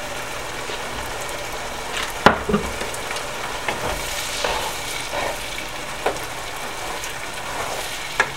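Diced onions sizzling in melted butter in a frying pan while a wooden spoon stirs them, with a steady hiss and several short knocks of the spoon against the pan, the loudest about two seconds in.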